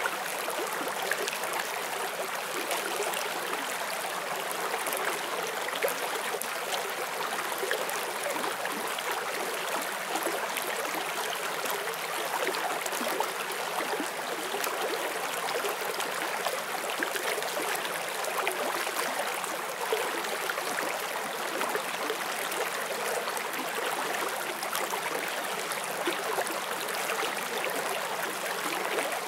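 A forest stream flowing over stones, a steady rushing and babbling of water with many small splashes and gurgles throughout.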